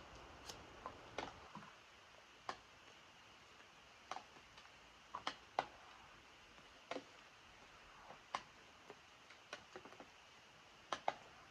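Faint, irregular ticks of raindrops dripping onto a surface, a dozen or so at uneven intervals, over a faint steady hiss of rain.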